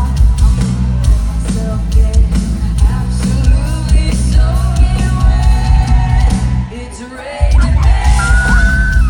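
Loud live pop band music with a lead vocal singing over heavy bass and drums. The bass drops out for about half a second roughly seven seconds in, then comes back, and a high note is held near the end.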